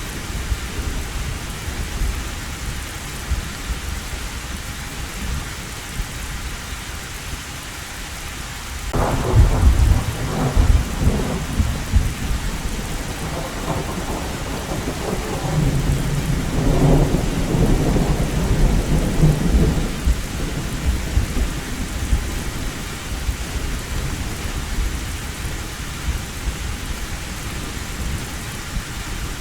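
Heavy rain falling steadily on an old tin roof, with thunder. A sudden crack of thunder about a third of the way in rolls into rumbling that swells again and dies away, leaving the steady rain.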